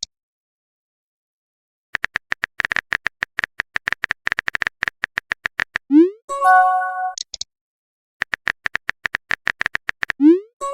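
Chat typing sound effect: a run of rapid keyboard clicks, then a short rising swoop and a brief chime of a few pitched tones, like a message-sent alert. The pattern happens twice, after a short silence at the start.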